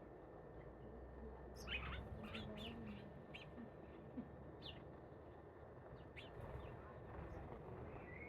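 Faint bird chirps: a quick cluster of short downward-sweeping chirps about two seconds in, then a few single chirps spread out over the rest, over a low steady background hiss.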